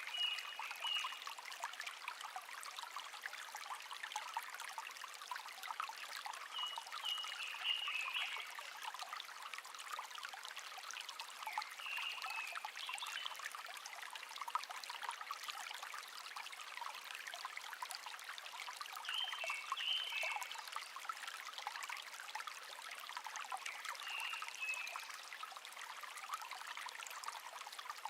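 Shallow stream babbling steadily, with a bird singing a short phrase about every five or six seconds, five times in all.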